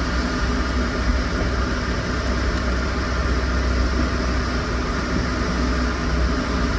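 Steady low hum with an even hiss over it, a machine running without change.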